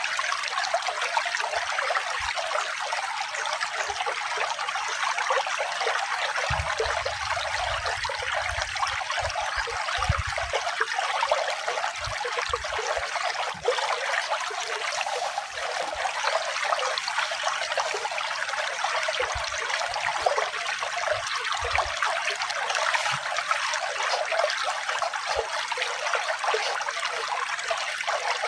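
Running water trickling and splashing steadily, an even rushing with no rhythm.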